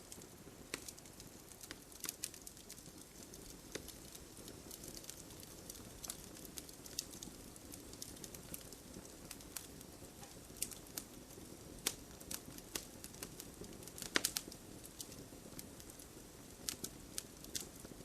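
Wood fire crackling: irregular sharp pops and snaps over a soft steady hiss of burning, with a quick cluster of louder pops near the end.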